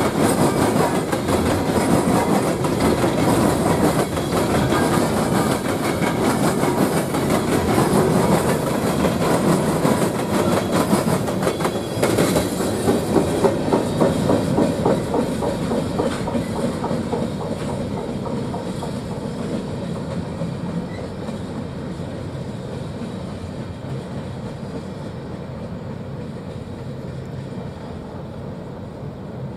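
Empty open-top coal cars of a freight train rolling past, the wheels clicking rhythmically over the rail joints. The last cars pass about thirteen seconds in with a burst of louder clicks, then the sound fades as the train moves away.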